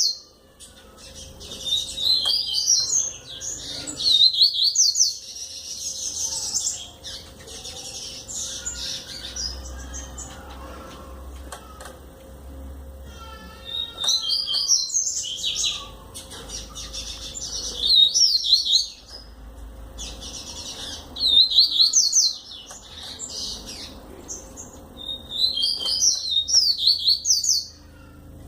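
A coleiro (double-collared seedeater) singing its song over and over: fast runs of high, sharp chirps, each phrase a second to a few seconds long, with short pauses between them.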